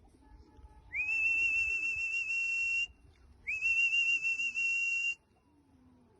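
Two long whistle blasts, each sliding briefly up and then held steady at one high pitch with a breathy hiss, the second starting about half a second after the first ends. At a pigeon loft such whistling is the fancier's signal to the homing pigeons.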